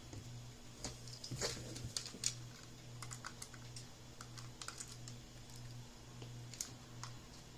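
Small scattered clicks and ticks of a tri-wing screwdriver turning screws out of a Game Boy Color's plastic shell, with the parts handled between turns. A faint steady low hum runs underneath.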